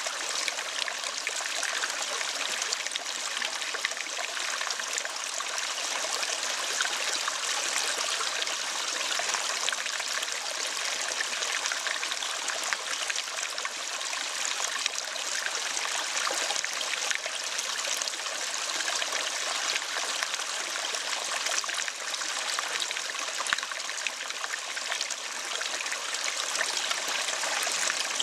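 Steady running water, a continuous trickling stream with no break or change.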